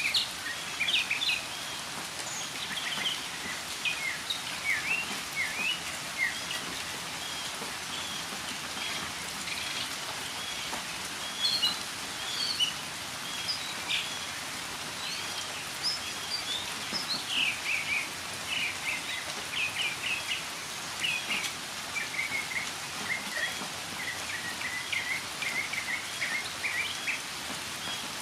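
Northern mockingbird singing a long string of short, varied chirping notes over steady rainfall.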